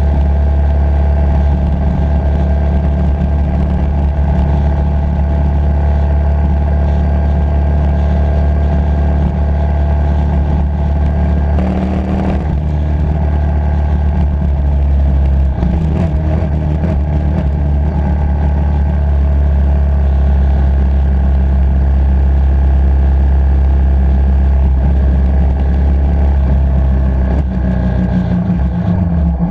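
Motorcycle engine running under way at a steady cruise. Its pitch shifts about twelve seconds in and again around sixteen seconds, like gear changes, and it falls away near the end as the bike slows.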